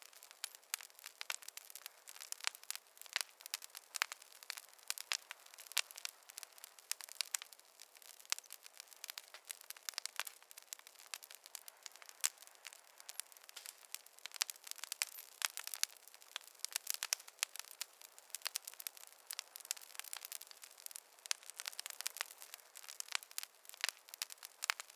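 Campfire burning with irregular sharp crackles and pops from the burning wood, several a second, over a faint hiss.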